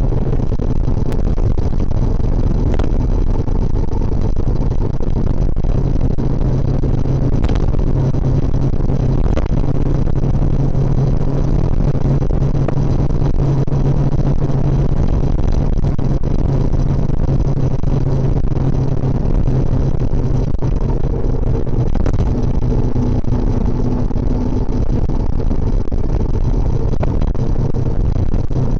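Suzuki GSX650F motorcycle's inline-four engine running steadily under way, its pitch holding fairly even.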